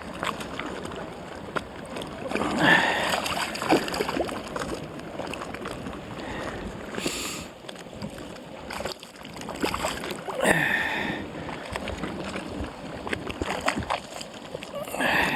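Water sloshing and splashing, with a few louder short sounds about three and ten seconds in.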